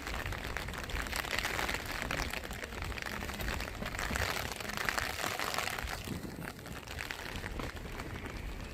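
Rain falling steadily, with many small sharp drop ticks close by, easing slightly after about six seconds.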